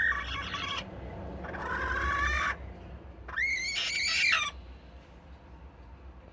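Broody Serama bantam hen calling three times, each call under a second with a rising then held pitch, then falling quiet.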